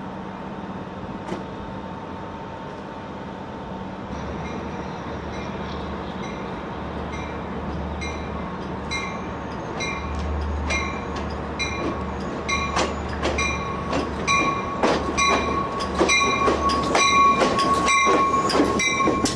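Commuter train pulling into the station, growing louder as it approaches: a low engine hum, wheel clicks over the rail joints, and a steady ringing that repeats about twice a second from about eight seconds in.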